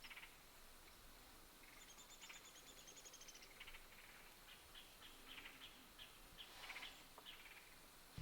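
Faint wild birdsong over quiet woodland: a fast, high trill about two seconds in, followed by a series of short chirps.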